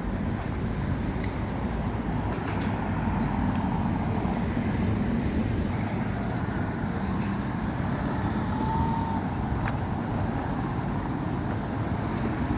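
Steady low rumble of road and engine noise from a moving vehicle.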